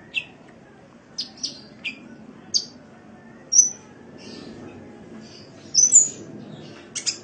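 Sunbird calling: a string of short, sharp, high chirps and quick down-slurred tweets at irregular intervals, some paired, over a faint steady background hiss.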